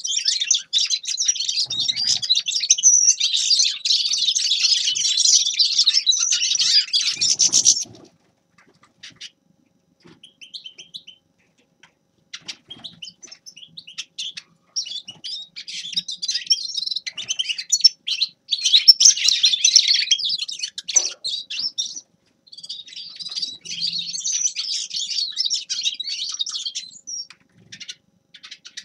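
Grey-headed goldfinch singing a rapid, high song. It sings without a break for the first eight seconds and goes almost quiet apart from a few scattered notes. From about halfway through it starts again in long phrases.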